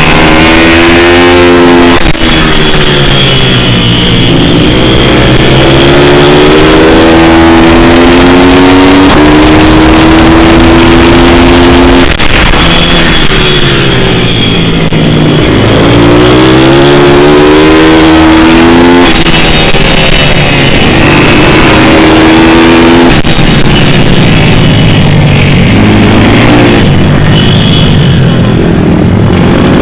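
Single-cylinder pit bike motard engine ridden hard around a track, very loud. Its pitch climbs under throttle, drops sharply, then falls away and climbs again several times, as on straights and into corners.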